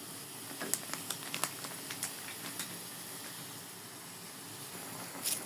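Meat cooking in a pot on the stove, a steady hiss, with scattered light clicks in the first few seconds and a short louder burst near the end.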